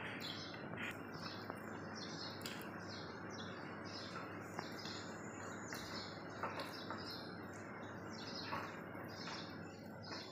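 Small birds chirping, a steady run of short high chirps several times a second, over a faint steady low hum.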